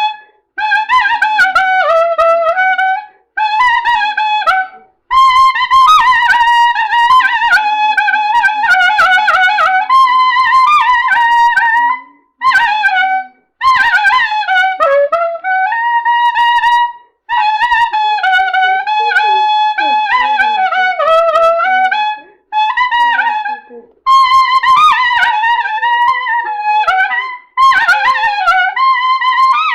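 Solo clarinet playing a melody in phrases a few seconds long with short breaks between them, the notes sliding and bending in ornamented turns.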